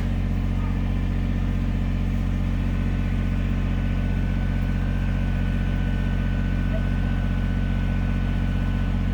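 A low, steady engine hum that holds at an even pitch and level, like a motor idling.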